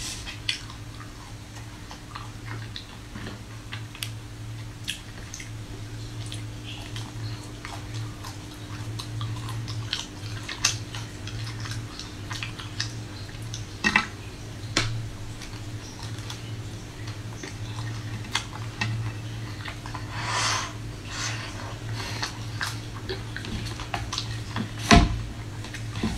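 Biting and chewing of a hard-frozen chocolate-coated ice cream bar: scattered crisp crunches as the frozen shell cracks, with a few louder bites about halfway through and near the end. A steady low hum runs underneath.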